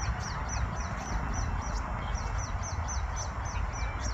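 A small bird repeating a short, high, falling chirp about three times a second, over a steady low rumble.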